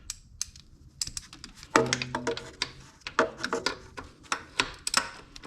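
Hand ratchet clicking in quick, irregular runs as it works the alternator mounting bolt loose; the bolt turns easily because it was never tightened.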